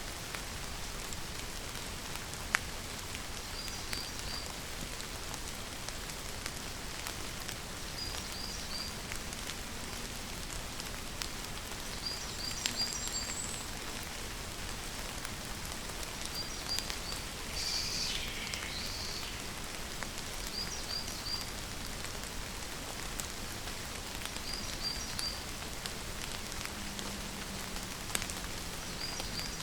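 Steady rain falling, with single drops ticking sharply now and then. A small bird repeats a quick, high three- or four-note call every four seconds or so, with one longer call about midway.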